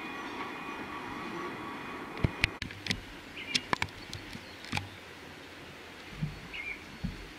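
Passing train: a steady rumble with high ringing tones that stops a little over two seconds in, followed by a scatter of sharp clicks and knocks.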